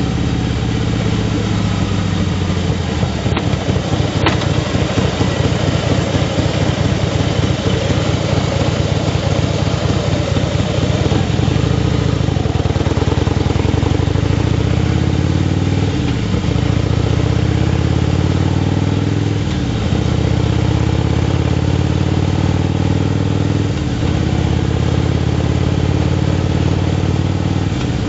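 Motorcycle engine running under way, with wind and road noise. The engine's pitch dips and climbs back about three times in the second half.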